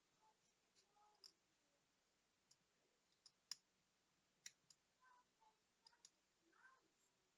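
Faint, irregular small clicks and taps of tools handling the tiny parts of a digital wristwatch, with the loudest two about halfway through.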